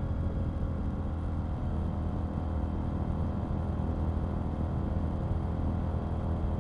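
KTM 890 Duke R's parallel-twin engine running at steady low revs, its pitch holding level.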